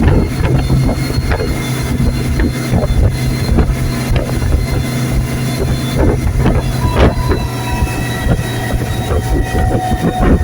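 Motorboat engine running at a steady pitch, with wind buffeting the microphone and scattered sharp knocks.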